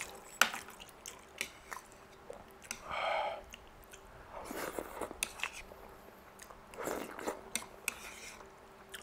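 A person chewing mouthfuls of soft rice noodle rolls, with many short wet mouth clicks and smacks and a few longer squelching chews.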